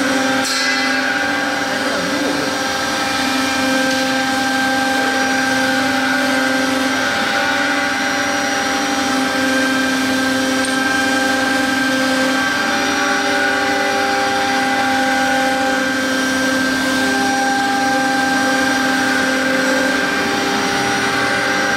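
A CNC router's 3.5 kW air-cooled spindle cutting fiber board: a steady whine of several held tones over a dense rushing hiss, the lower tones shifting slightly every few seconds as the cut moves.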